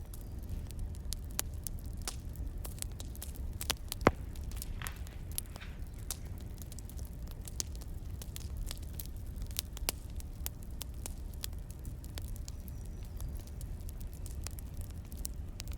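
Burning firewood crackling, with irregular sharp pops over a low steady rumble and one louder pop about four seconds in.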